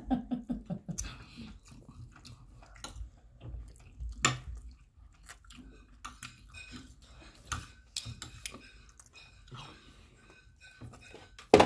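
Close-up chewing and mouth sounds of two people eating rice, with scattered clicks of metal spoons on plates and one sharp clink near the end.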